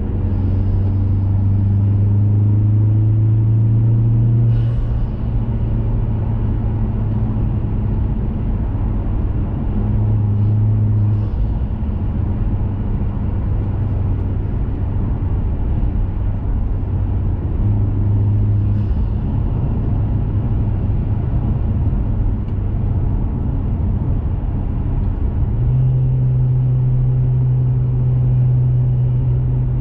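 2021 Mazda 3 Turbo's turbocharged 2.5-litre four-cylinder engine and CorkSport cat-back exhaust under way. The engine note climbs slightly over the first few seconds, drops about four seconds in, runs steadily at cruising speed, then rises again near the end.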